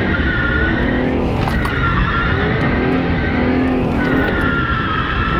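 A car drifting: the engine revs up and down while the tyres squeal in long stretches, three times.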